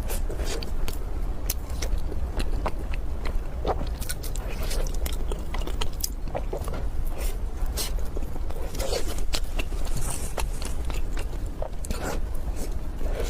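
Close-miked eating: biting into and chewing a chocolate-coated pastry, with irregular soft crackles and clicks.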